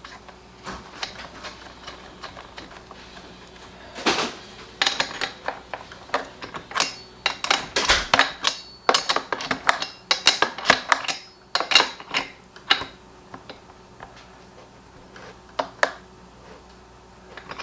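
Metal hand tools and small parts clinking and clattering in a quick irregular series of sharp clicks, busiest in the middle, while a small engine is worked on by hand.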